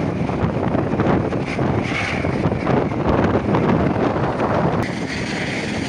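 Helicopter engine and rotor running close by, heavy wind buffeting the microphone. The sound drops and changes abruptly about five seconds in.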